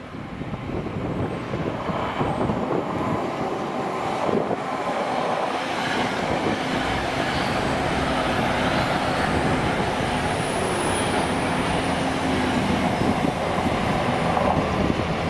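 TransPennine Express Class 802 bi-mode train passing close by. Its rumble builds over the first couple of seconds, then holds steady with a low hum and the noise of wheels on the rails.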